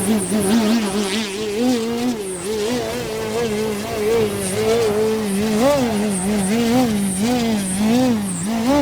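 Electric motor and propeller of an Extra NG 60" Skywing aerobatic RC plane droning in flight, its pitch wavering up and down quickly as the throttle changes through the manoeuvres.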